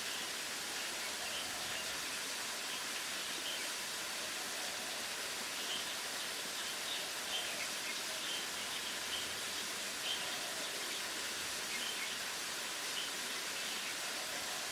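Small birds chirping, many short faint high calls scattered irregularly over a steady hiss.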